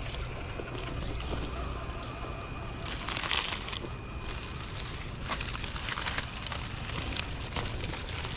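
Crunching, crackling noise in irregular patches, loudest about three seconds in and again around five to six seconds, over a steady low rumble.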